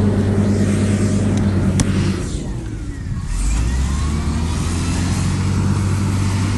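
Heavy earthmoving machine's diesel engine running steadily. A couple of seconds in, its note dips, then it settles to a deeper, lower pitch.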